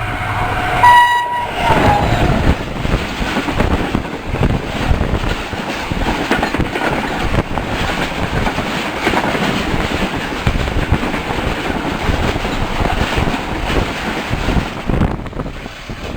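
A train horn sounds once, briefly, about a second in. The train then runs on with a steady rumble and the clatter of wheels over rail joints.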